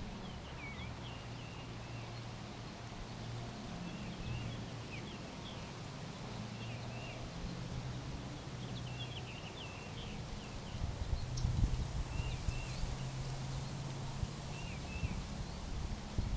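Small backyard birds chirping: many short, high chirps, often in quick pairs, repeated through the whole stretch. A low steady hum sits underneath, with a few dull low thumps about two-thirds of the way in.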